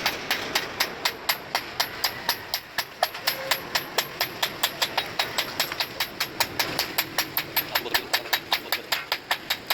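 Rapid, evenly spaced hammer strikes, about five a second, keeping a steady rhythm.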